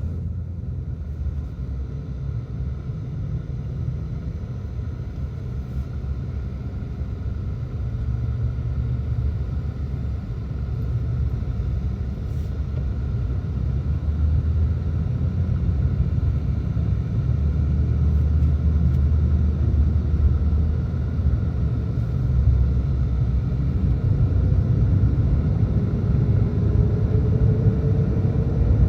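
Car engine and road rumble heard from inside a slow-moving car, growing gradually louder, with a faint rising whine near the end.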